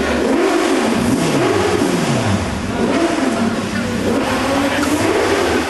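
Motorcycle engine revving, its pitch rising and falling several times, with one long fall in pitch between about one and two and a half seconds in.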